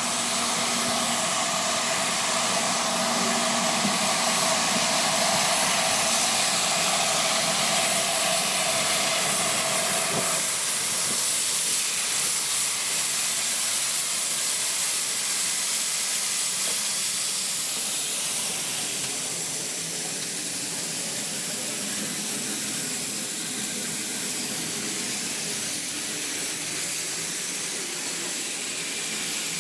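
Steam locomotive letting off steam: a steady hiss, with a lower tone in it that stops about ten seconds in.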